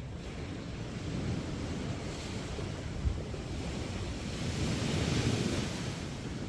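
Sea waves breaking and washing up on a beach, with a rush of surf swelling louder about two-thirds of the way through. Wind buffets the microphone, adding a low rumble.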